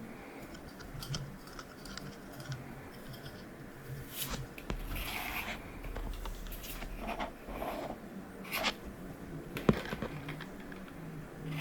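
Hard plastic parts being handled and fitted together: scattered scrapes and small clicks, with one sharp click about ten seconds in.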